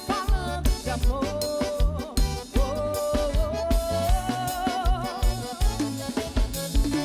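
Live band music: a drum kit keeps a steady beat over a bass line, under a long held, wavering melody line.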